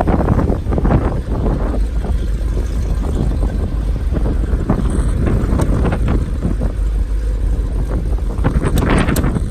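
1964 Corvette Stingray's 327 small-block V8 running with a steady low rumble, with wind buffeting the microphone.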